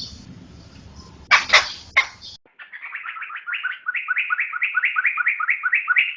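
Poksay (laughingthrush) singing: a few harsh, scratchy calls, then a fast, even run of repeated whistled notes, about seven a second, that goes on to the end.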